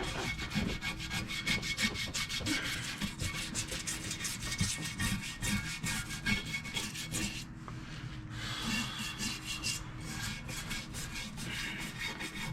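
Soft-bristled brush scrubbing caked oily grime off engine parts in quick back-and-forth strokes, with a short pause a little past the middle.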